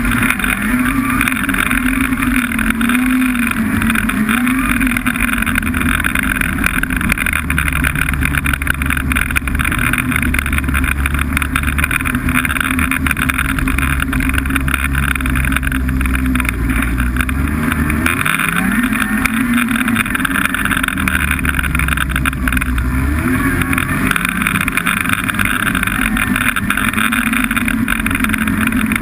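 Snowmobile engine running under way. The engine note drops and climbs back twice, a little over halfway through, as the throttle is eased and reopened.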